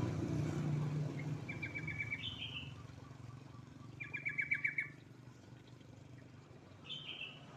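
Yellow-vented bulbul (trucuk) calling in short bursts: quick chattering rattles with falling whistled notes, heard three or four times. It is a lure call used to prompt a quiet caged bulbul into song. A low hum fades out in the first second or so.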